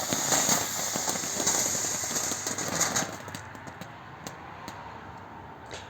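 White strobe firework fountain burning with a rapid, irregular crackle of strobe pops over a hiss, dying out about three seconds in as the fountain burns out.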